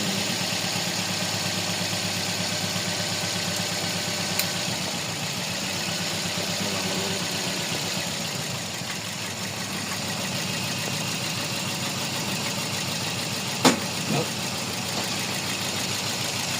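Toyota Vios inline four-cylinder engine idling with a misfire on cylinder 4 (fault code P0354, the number 4 ignition coil circuit). Near the end, two sharp clicks about half a second apart.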